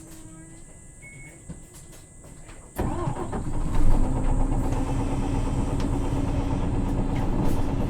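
The Isuzu 6HK1 inline-six diesel of a 2009 Isuzu PKG-LV234L2 city bus restarts after an idling stop. After nearly three quiet seconds the engine catches suddenly, comes up briefly, and settles into a steady idle.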